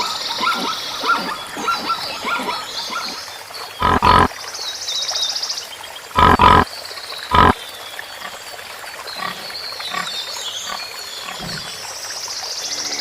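Animal calls: a quick series of short calls, then three loud, harsh calls about four, six and seven and a half seconds in, over an intermittent high buzzing.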